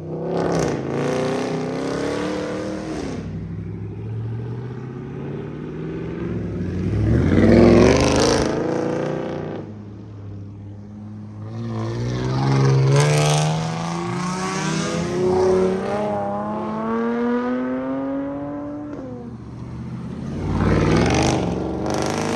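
Car engines running and accelerating past, with loud swells as cars go by several times. Through the middle one engine's pitch climbs steadily for several seconds, then drops off.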